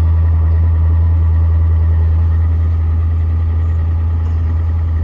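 Ford 6.7 Powerstroke V8 turbodiesel idling steadily on a cold start at −28 °C, now running evenly after its earlier sputtering.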